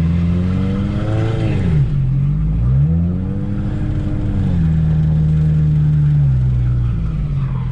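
Turbocharged Scion FR-S flat-four engine on E85 revving up and down as the car is slid around on ice. The revs rise and fall several times, with a sharp drop about two seconds in and a step down near the end.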